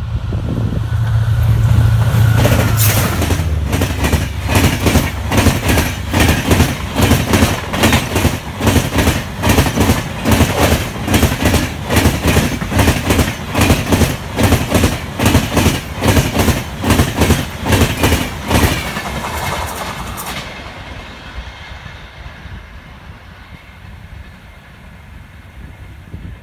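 Diesel locomotive passing close at speed with its engine droning, followed by its passenger coaches: a fast, regular clickety-clack of wheels over the rail joints for about fifteen seconds, then fading away as the train recedes.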